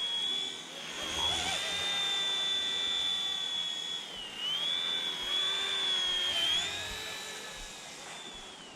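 Electric RC helicopter in flight: a steady high motor-and-rotor whine whose pitch dips briefly about four seconds in and again about six and a half seconds in, as the helicopter fights gusty wind. The whine fades over the last couple of seconds.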